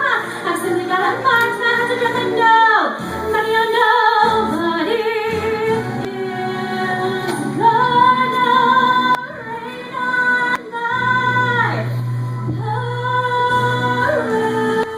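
A young female voice singing a show tune over musical accompaniment, with long held notes and vibrato.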